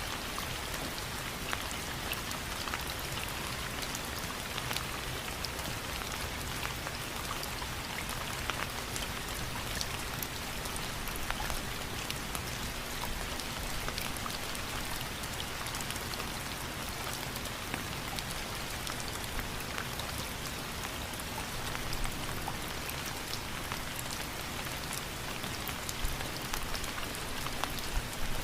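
Steady rain falling, a constant hiss dotted with many individual drops ticking.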